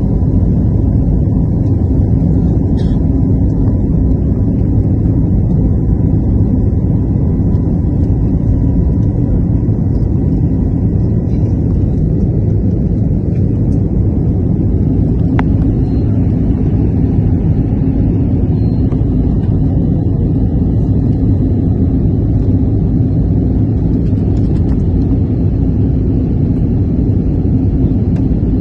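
Steady, loud low rumble of engine and airflow noise from inside an aircraft, unchanging throughout.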